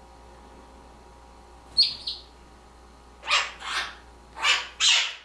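Blue-crowned conure calls: a short double call about two seconds in, then four louder squawks in two pairs in the last two seconds.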